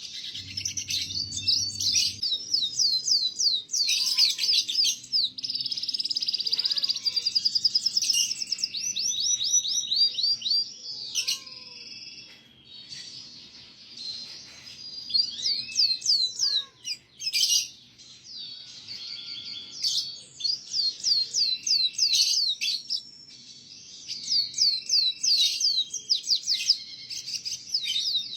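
Domestic canary singing a long, varied song of rapid trills and repeated notes, with a brief lull about halfway through: a tutor song played for young canaries to learn from.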